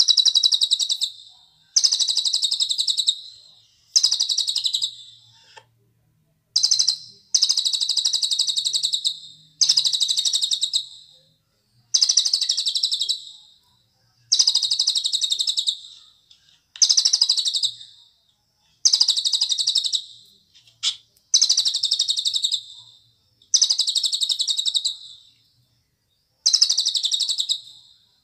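A cililin songbird singing: a rapid, high trilled phrase of about a second and a half, repeated about every two seconds. Each phrase starts loud and fades toward its end.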